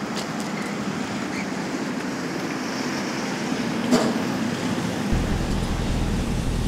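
Steady street traffic noise with one sharp knock just before four seconds. About five seconds in, the low, even rumble of a Range Rover Sport's engine comes in as the SUV pulls up.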